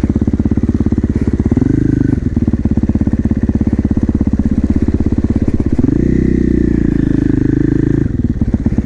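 450cc single-cylinder supermoto engine running at low revs with an even chugging beat, with a short burst of throttle about two seconds in and a longer rev from about six to eight seconds in.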